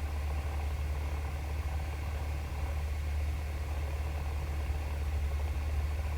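Cessna 172's piston engine idling steadily, a low, even drone with no change in speed.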